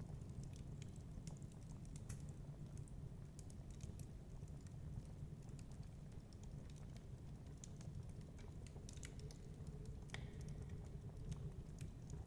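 Wood fire crackling, with irregular sharp pops and snaps over a steady low rumble of storm wind.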